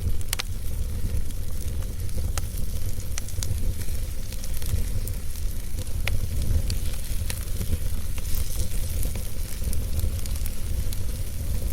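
Wood fire burning in a fireplace: logs crackling with irregular sharp pops, the loudest about a third of a second in and near six seconds in, over a steady low rumble.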